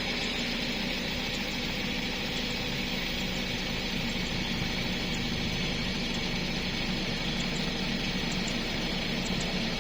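An engine running steadily at an even speed: a constant low hum with a hiss over it.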